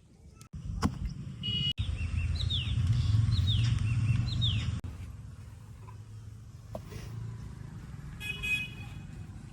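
Heavy diesel machinery engine running loudly under load for the first few seconds, then dropping back to a quieter run. Short horn toots sound at about 1.5 s and again near the end.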